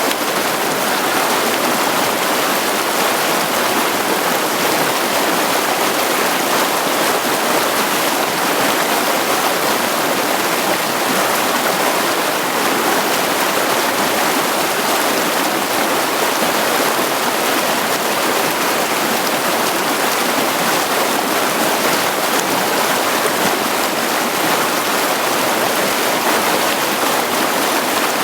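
Mountain creek running steadily over rocks and stones, a constant rushing and splashing of water.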